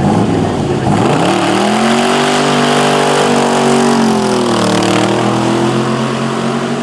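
A car engine revving up about a second in and holding a steady high note, with a brief drop and recovery in pitch a little past the middle.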